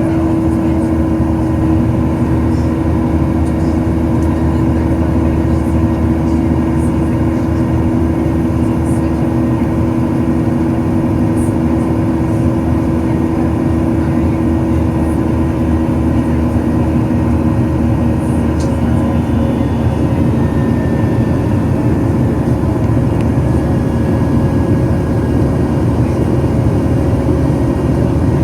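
Boeing 737-800's CFM56 jet engines running, heard from inside the cabin: a steady roar with a constant hum, the strongest hum tone fading out about two-thirds of the way through.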